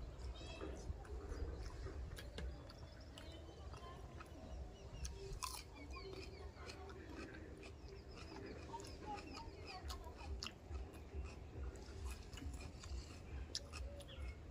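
Close-up chewing and biting of a person eating fish curry and rice by hand, with wet mouth sounds and small clicks. About five seconds in there is a crunchy bite into raw onion.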